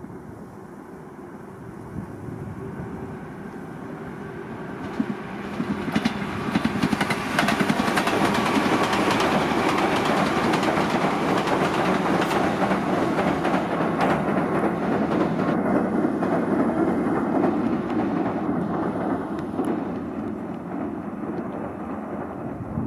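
Tobu 10030 series electric commuter train running past on a viaduct: it builds up over several seconds, stays loud for about ten, and fades near the end.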